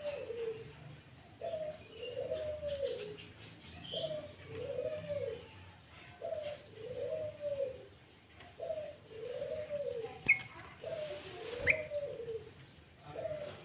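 A dove cooing the same low two-part phrase over and over, a short note then a longer rising-and-falling coo, about every two seconds. Two sharp high chirps cut in near the end.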